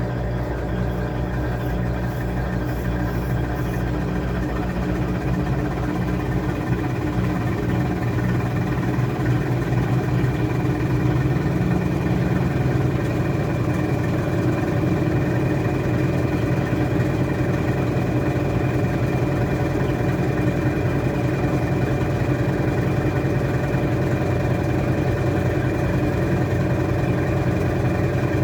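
Washing machine running with a steady motor hum and whir, growing slightly louder over the first ten seconds or so.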